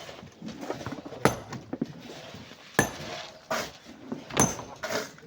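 Metal hand tool striking rock and sand: three sharp ringing clinks about a second and a half apart, with lighter knocks between them.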